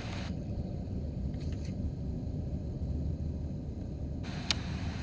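Car cabin noise while driving on bad winter roads: a steady low rumble of engine and tyres, with a sharp click about four and a half seconds in.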